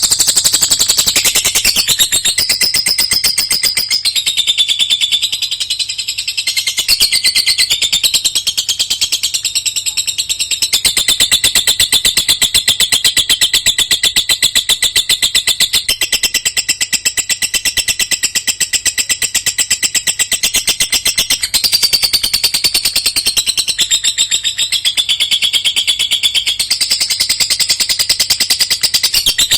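Lovebird singing one long, unbroken chatter of very rapid high notes, shifting pitch every few seconds without pausing. This is the long-duration song that Indonesian songbird fanciers prize in lovebirds.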